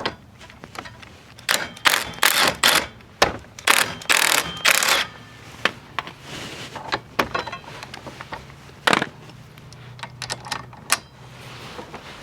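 Metal hand tools clinking and clattering as they are handled and set down: a run of sharp clicks and knocks, busiest in the first five seconds, then a few scattered ones.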